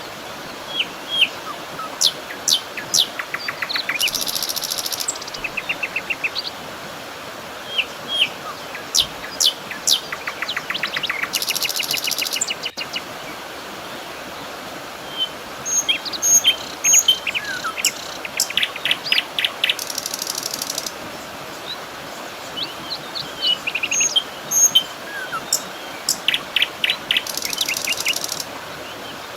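Several songbirds chirping and calling, with quick chirps and fast trills, and a high one-second buzz that comes back about every eight seconds, over a steady soft hiss.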